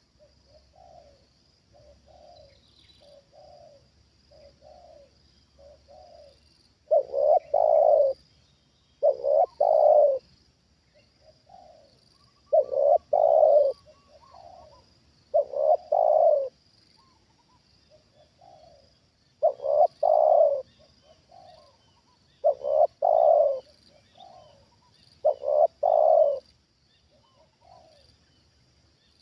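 Spotted doves cooing: seven loud phrases, one about every three seconds, with softer coos between them. A steady high insect buzz runs underneath.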